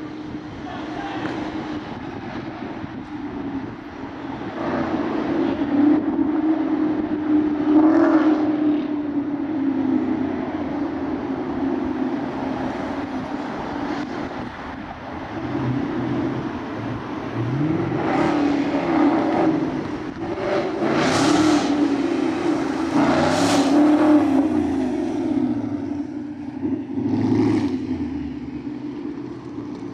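Car engine running steadily, with several louder surges a few seconds apart.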